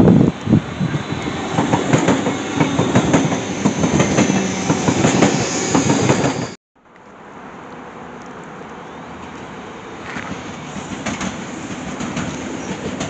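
Red regional electric multiple unit passing close by, wheels clattering over the rail joints with a high squeal from the wheels. The sound cuts off abruptly a little past halfway. It is followed by the quieter, steady rolling of another train on a farther track.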